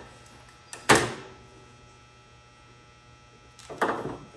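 A sharp knock about a second in, just after a small click, then a short clatter of handling near the end.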